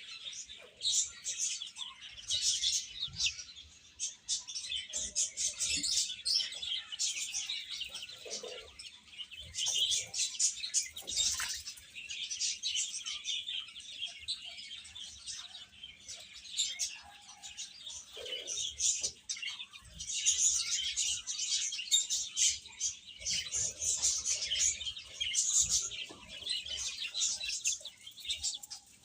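Baby chicks peeping: many short, high chirps overlapping almost without a break.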